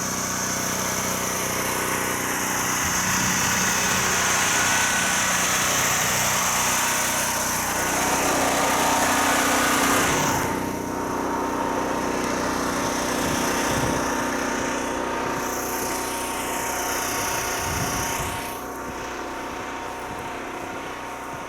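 An engine running steadily, with a drop in level about ten seconds in and again near eighteen seconds.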